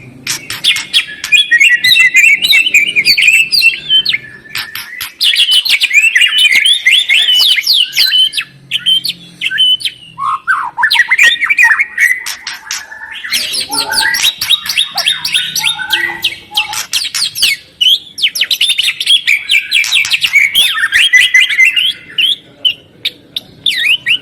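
White-rumped shama and greater green leafbird song: loud, fast chattering and ticking phrases run together with quick whistled notes, pausing briefly a few times.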